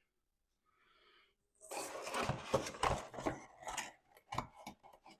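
Clattering and rustling of metal parts and tools being handled for about two seconds, followed by a few separate sharp clicks.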